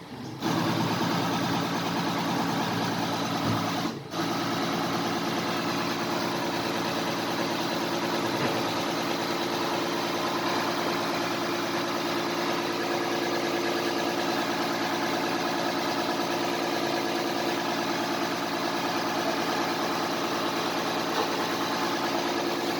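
Interpump high-pressure plunger pump and its drive running steadily with an even mechanical hum. It starts about half a second in and drops out briefly around four seconds in before running on.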